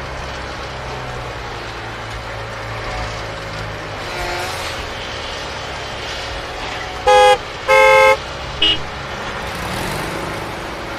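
Vehicle horn giving two loud toots about seven seconds in, then a brief third blip, over a steady engine-like rumble.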